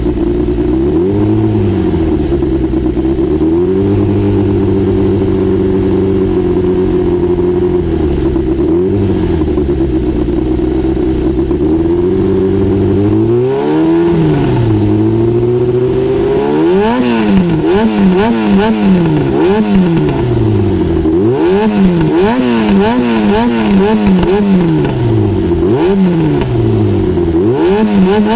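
Honda CBX550F inline-four running through a homemade exhaust silencer. It holds fairly steady revs with a few brief dips for the first half, then is revved up and down about once a second.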